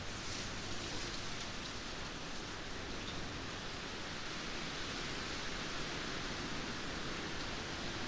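Steady rain falling, an even hiss of rainfall with scattered faint drop ticks.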